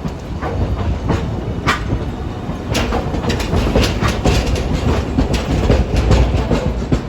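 Hiroshima Electric Railway streetcar moving along the track, a low rumble with its wheels clacking and knocking on the rails, the clacks coming thicker after about three seconds.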